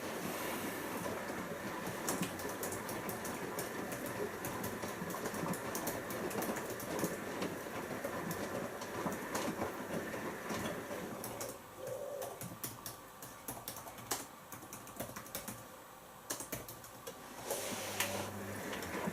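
Siemens iQ washing machine drum tumbling laundry in rinse water during the first rinse: sloshing and churning with many sharp clicks. The drum pauses and goes quieter partway through, then starts turning again with a low motor hum near the end.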